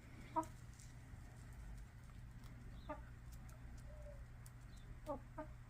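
Hens giving a few soft, short clucks, scattered and faint, with two quick ones near the end.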